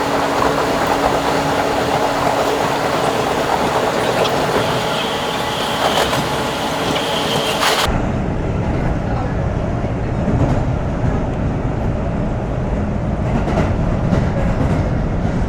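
Subway train running at speed, a steady rumble and clatter of wheels on rails, with a thin high wheel squeal for a few seconds midway. About eight seconds in the sound changes abruptly to a deeper, bass-heavy rumble with a few clicks.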